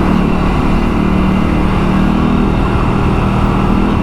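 Aprilia RS 457's parallel-twin engine running at a steady pitch while the motorcycle is ridden.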